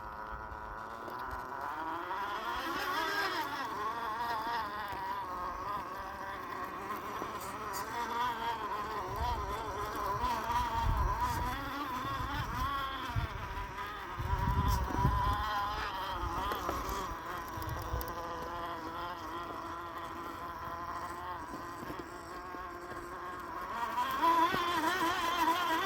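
Axial SCX10 II RC crawler's electric motor and gearbox whining, the pitch rising and falling as the throttle changes, with low rumbles about ten and fifteen seconds in.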